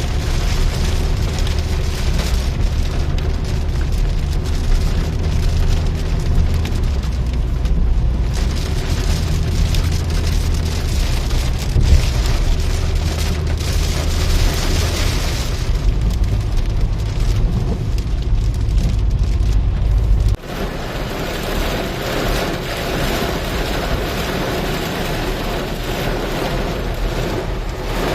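Steady rain noise over a deep, continuous low rumble, typical of a car driving in heavy rain. About twenty seconds in the sound changes abruptly: the rumble drops away, leaving a lighter, hissier rain.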